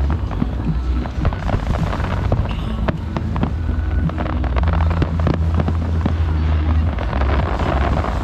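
Fireworks bursting and crackling in quick succession over music with a heavy bass line.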